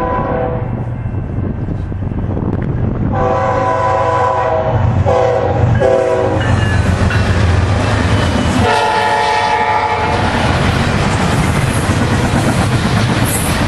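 A BNSF freight train's Nathan K5HL five-chime horn blowing the grade-crossing signal as the diesel locomotives pass: a long blast, two short ones and another long blast, over a steady low engine rumble. After that comes the rolling rumble and clatter of double-stack container cars going by.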